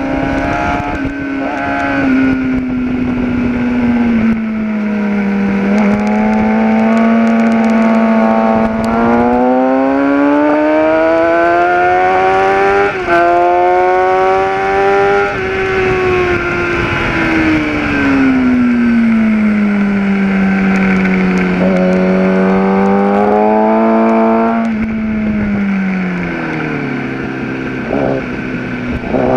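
Kawasaki ZX-10R's inline-four engine heard on board at track speed. Its pitch climbs steadily through a long pull of several seconds, falls away, and rises again. Near the end it drops in quick steps as the bike is shifted down, then starts climbing once more, with wind rush throughout.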